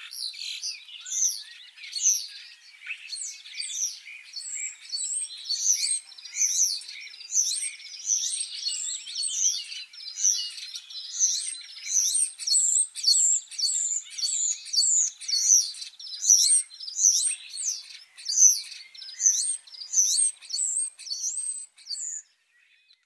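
Birds chirping: a dense run of short, quick, high chirps, several a second, that starts and stops abruptly.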